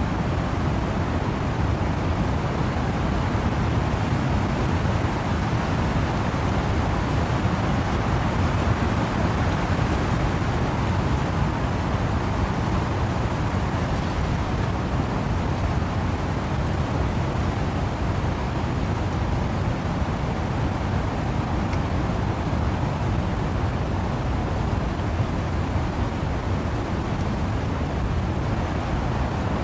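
Wind and rain through trees: a steady, even rushing noise, deepest and heaviest in the low range, with no single drops, gusts or knocks standing out.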